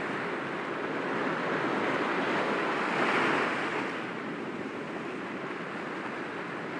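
Sea waves washing gently against rocks, one wave swelling and breaking about three seconds in, then easing back into a steady surf hiss.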